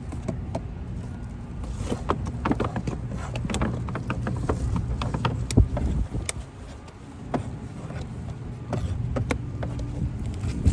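Food containers and utensils clicking and knocking as meals are packed, over a steady low motor hum.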